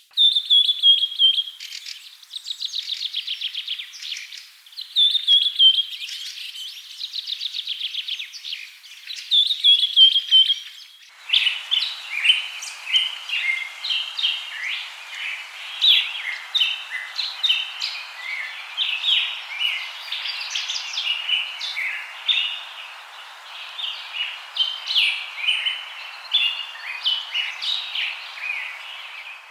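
Birdsong. For the first eleven seconds a single bird repeats a trilled phrase that falls in pitch, about four times. Then the sound switches abruptly to a busier chorus of several birds chirping over a steady background hiss.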